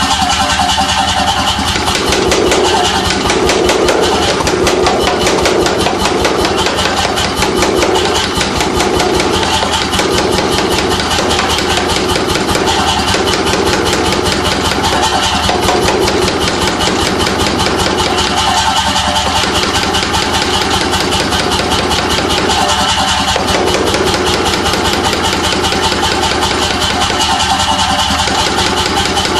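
C41-series pneumatic forging hammer (air hammer) running, its ram striking in a fast, even beat over the steady noise of the machine.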